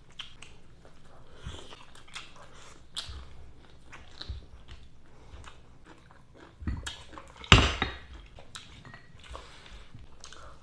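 Close-up chewing and crunching of crispy fried shrimp, many small crackles and clicks, with one louder crunch or clatter about seven and a half seconds in.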